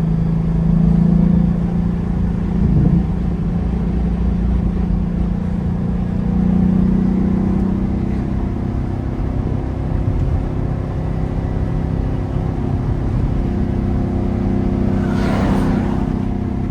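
A 2021 Ford Mustang GT's 5.0-litre V8 running steadily while driving, its note rising a little about six seconds in and then easing back. A short whoosh passes near the end.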